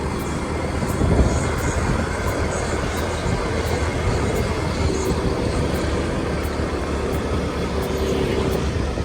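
Motorbike running steadily while riding, with heavy wind rumble on the microphone.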